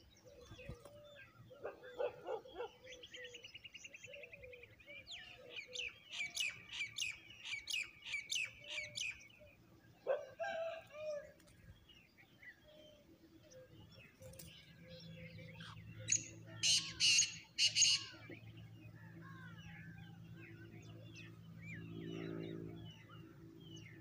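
Several birds chirping and calling, with a fast run of repeated high chirps a few seconds in and a short cluster of loud chirps past the middle. A low steady hum comes in during the second half.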